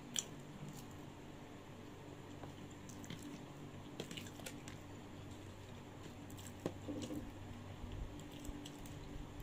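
Close-mic mukbang eating sounds: a person chewing food with soft wet mouth squishes, and scattered small clicks as wooden chopsticks pick at food in a plastic bowl.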